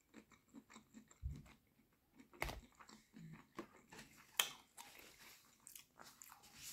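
Close-up chewing of cocktail shrimp: a run of faint, irregular wet mouth clicks and smacks, with a couple of louder smacks about two and a half and four and a half seconds in.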